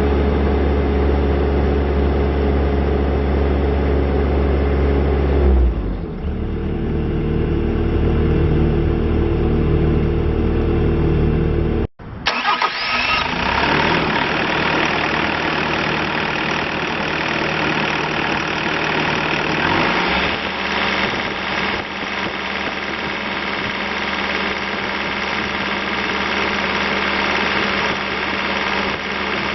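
Diesel engine of a Bobcat T595 compact track loader running steadily, its pitch changing about six seconds in. Near the middle the sound cuts off abruptly and comes back noisier and fuller, with another shift in engine note a few seconds later.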